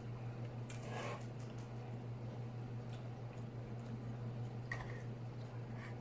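Close-miked chewing and mouth sounds of someone eating chili cheese fries, with a few short scattered clicks, over a steady low hum.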